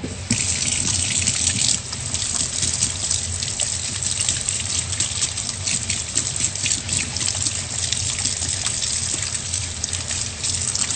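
Water running from a tap into a sink while hands are washed under it: a steady rush of water, a little louder for the first couple of seconds.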